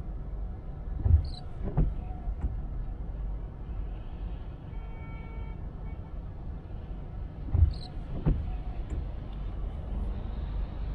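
Car on the move, with a steady low rumble of engine and road noise. Twice there is a pair of short thumps about two-thirds of a second apart: the wheels going over a bump or road joint.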